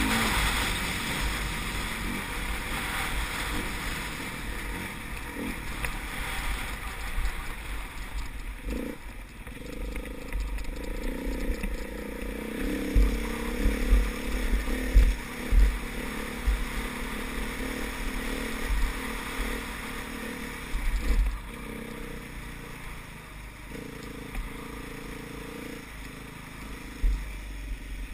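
Enduro motorcycle's engine running under varying throttle as it is ridden over a rough dirt track, heard from the bike's own camera, with low thumps from the bumps. A broad rushing noise dominates the first several seconds before the engine note comes through more clearly.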